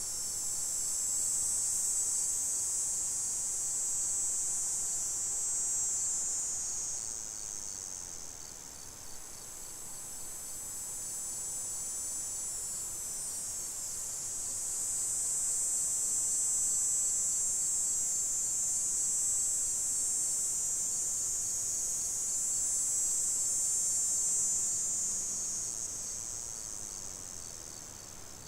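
High-pitched insect buzzing that swells and fades in long waves: loud for the first several seconds, softer for a while, loud again through the middle, then fading near the end.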